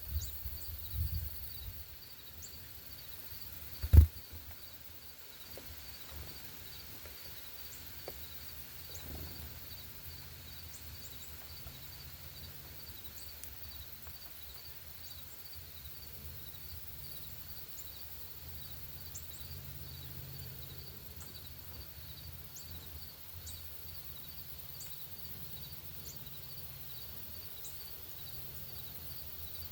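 Outdoor ambience with birds giving short, high chip notes scattered through it, over a steady, rapidly pulsing high trill and a low rumble. A single sharp knock comes about four seconds in.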